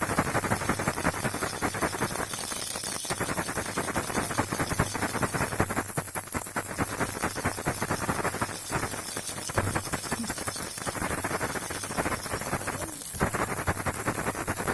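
Toy baby rattle shaken continuously, a dense stream of quick clicks and rattles, with a brief break near the end.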